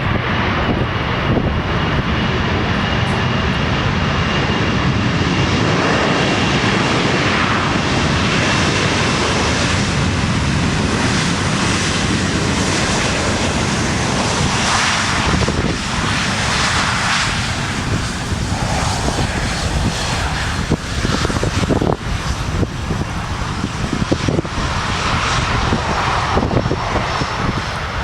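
Airplane engine noise, loud and steady, with a faint high whine that slowly falls in pitch.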